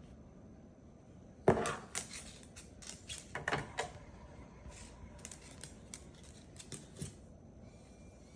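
A toy truck being handled: irregular sharp clicks and clattering knocks, the loudest about a second and a half in, then scattered taps and rattles until about seven seconds in.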